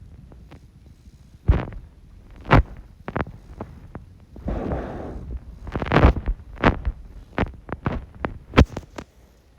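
Knee hockey play with plastic mini sticks: irregular sharp knocks of sticks on the ball and floor, with low thumps and a brief scuffling sound about halfway through.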